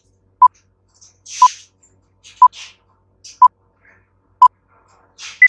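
Countdown timer beeping: five short beeps of one pitch, evenly spaced about a second apart, then a single higher beep near the end as the count runs out.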